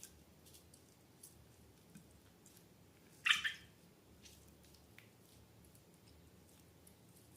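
Slime being squeezed and handled: faint sticky clicks, with one louder wet squelch about three seconds in.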